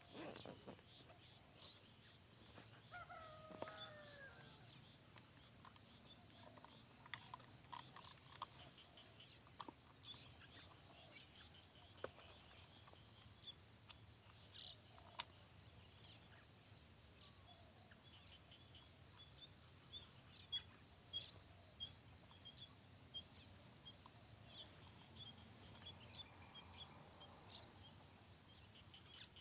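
Faint rural outdoor ambience: a steady high insect drone with scattered small bird chirps. A distant rooster crows once about three seconds in.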